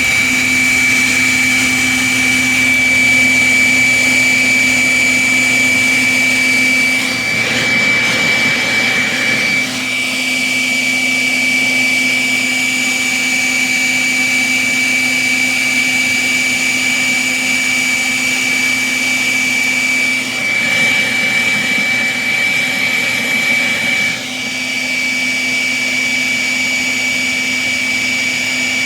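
Electric leaf blower running steadily at full speed, with a high, constant whine over the rush of air. The sound shifts twice, around 7 and 20 seconds in, then settles again.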